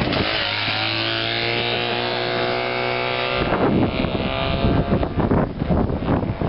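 Small engine of a vintage three-wheeled microcar passing close, a steady droning tone that breaks off about three and a half seconds in. After that, wind buffeting the microphone.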